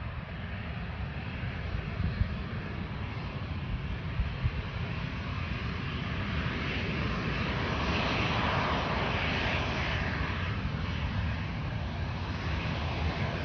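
Boeing 737 jet engines running on the runway, a steady rushing roar with a low rumble that swells louder about eight seconds in and eases slightly near the end.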